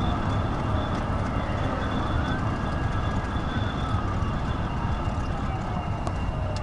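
Steady low rumble and hiss of a vehicle running at highway speed during a pursuit, with faint tones sliding slowly down in pitch.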